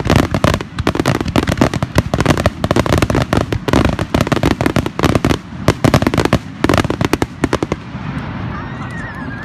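Fireworks display: a dense, rapid barrage of bangs and crackling pops from shells bursting overhead. The barrage stops about eight seconds in, leaving a softer hiss.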